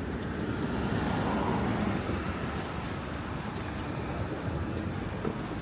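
Road traffic noise: a motor vehicle passing, its sound swelling and then easing over the first few seconds, over a steady street hum.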